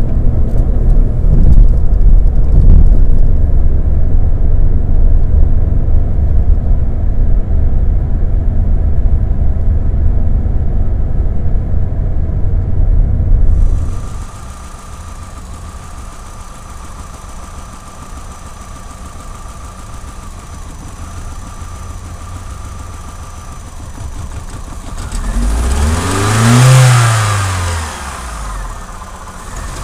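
Opel Vectra B's 1.6 16V Z16XE four-cylinder petrol engine, which has a cylinder 4 misfire logged (P0304). A loud low rumble gives way, about halfway through, to a quieter steady idle with a thin whine. Near the end comes one throttle blip: the revs rise and fall back.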